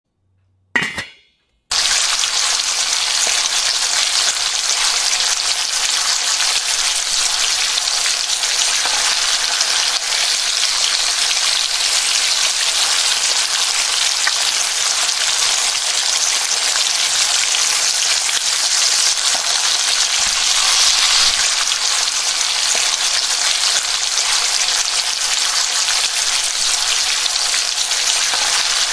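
Sliced onions sizzling in hot oil in a nonstick frying pan, stirred with a wooden spatula. The steady frying hiss starts about two seconds in after a short silence.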